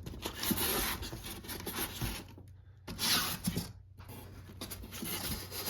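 Styrofoam packing and cardboard rubbing and scraping against each other as a tightly packed part is worked loose from the box, in irregular scratchy bursts with two brief silent gaps near the middle.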